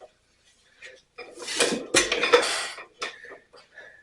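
Metallic clanking and a rush of noise lasting under two seconds, with a thump in the middle, as the 1927 Ottawa stationary engine's 18-inch flywheel is swung over by hand against heavy compression without firing.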